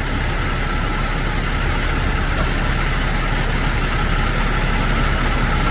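A truck engine idling steadily: a constant low rumble with a faint unchanging tone.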